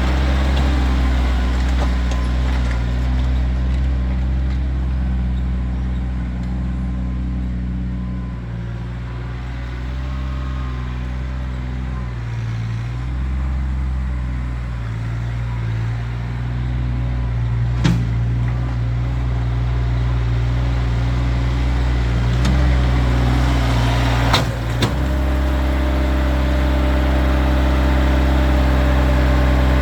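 Kioti tractor's diesel engine running steadily, its note shifting under changing load through the middle of the stretch. Two sharp knocks come through, one a little past halfway and another a few seconds later.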